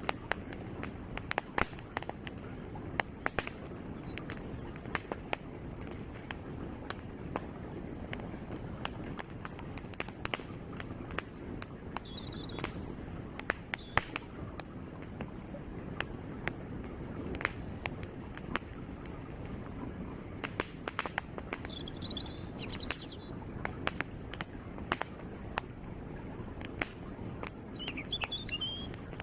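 Wood campfire crackling with frequent sharp, irregular pops over the steady rush of a flowing creek. A few brief bird chirps come in now and then.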